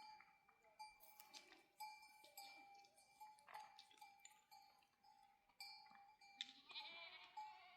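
Faint livestock sounds, with one wavering bleat near the end, over soft background music of sustained tones.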